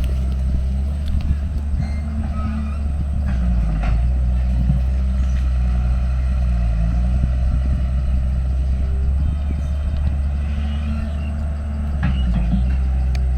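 Diesel engine of a heavy earthmoving machine running steadily, with a few metallic clanks.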